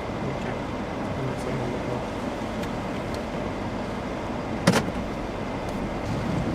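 Steady road noise of a car being driven, with one sharp knock about two-thirds of the way through.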